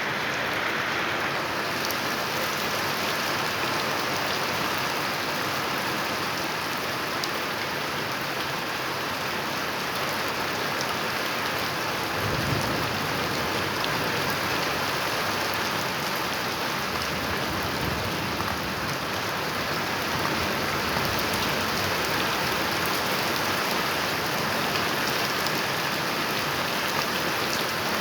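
Steady rain falling, with low rumbles of thunder about twelve seconds in and again a few seconds later.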